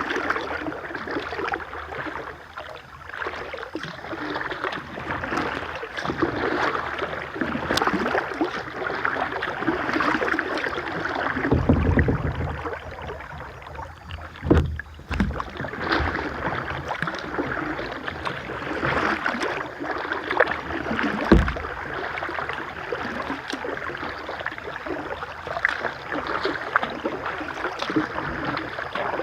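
River water rushing and splashing around a kayak as it paddles downstream, with a few deep thumps.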